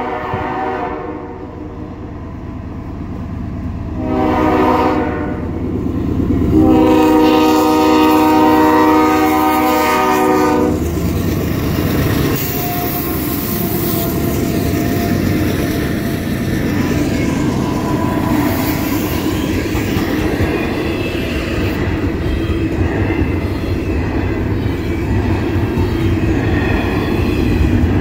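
A CSX freight locomotive's air horn sounds for the grade crossing. One blast fades out about a second in, a short blast comes around four seconds, and then a long, loud blast lasts about four seconds. After that the locomotive and the intermodal train's container cars roll past close by, with a steady loud noise of wheels on the rails.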